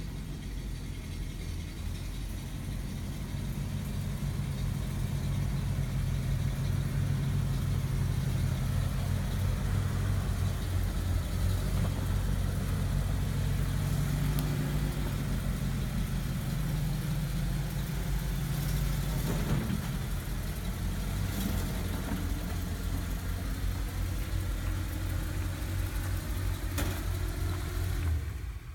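1962 Studebaker truck engine running steadily with a low, even pulse, then shutting off near the end.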